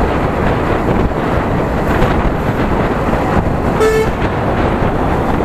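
Steady rushing wind and road noise from a moving Yamaha R15 v3 motorcycle, with a short vehicle horn beep about four seconds in.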